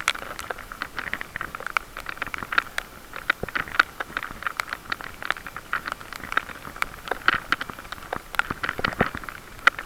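Irregular crackling and clicking while riding a bicycle: rattle and rub noise on the microphone, uneven and unrhythmic.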